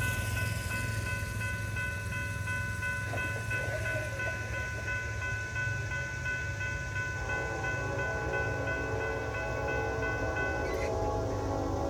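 Norfolk Southern diesel freight train running, its engine a steady low rumble. A set of steady high tones holds until they cut off near the end, and a chord of lower tones comes in about seven seconds in.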